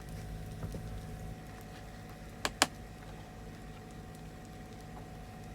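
Generator running with a steady low hum. Two sharp clicks come about two and a half seconds in.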